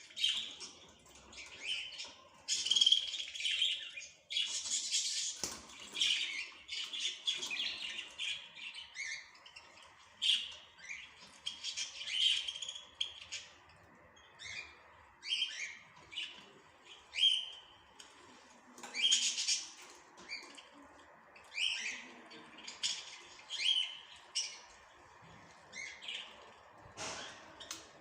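Small birds chirping and tweeting: short, high calls, crowded together in the first several seconds and then coming about once a second.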